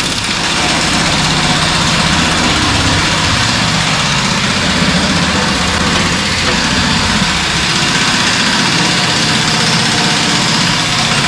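Shop air compressor running steadily and loudly, pumping up its tank after being switched back on.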